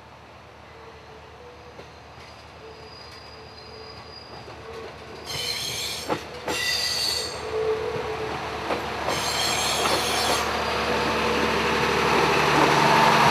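JR East HB-E300 hybrid railcar moving off and passing close, its running noise growing steadily louder. Its wheels give two high-pitched squeals of about a second each, around the middle. A couple of sharp clacks come over the rail joints, and a low steady hum builds near the end.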